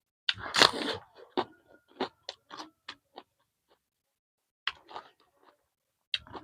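Close-miked chewing and biting of food: a loud crunch about half a second in, then a run of short, sharp mouth clicks. The clicks pause for about a second in the middle and resume near the end.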